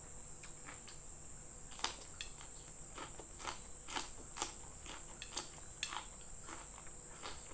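Close-up eating sounds of a person chewing mouthfuls of fried noodles and rice taken by hand: irregular wet smacks and clicks of the mouth, starting about two seconds in.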